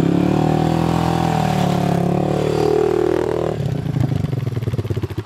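Honda ATV's single-cylinder engine running at high revs, then dropping to a lower, pulsing idle about three and a half seconds in.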